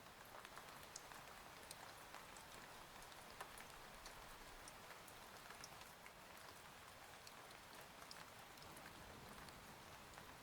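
Faint, steady rain ambience: an even hiss of rainfall with scattered sharp individual drops ticking throughout.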